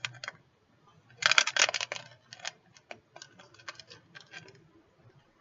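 Small items and packaging being handled by hand: a burst of rustling about a second in, then a run of light clicks and ticks.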